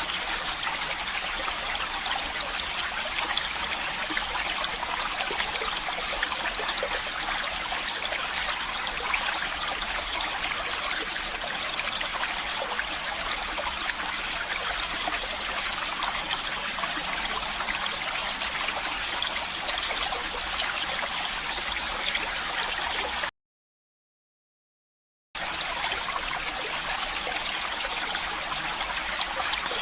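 Stream running water, a steady trickling flow. About three-quarters of the way through it cuts out to complete silence for about two seconds, then resumes.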